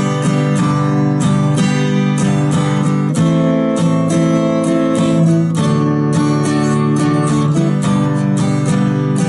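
Acoustic guitar strummed in a steady rhythm, chords ringing between strokes. The chord changes about three seconds in and again about two seconds later.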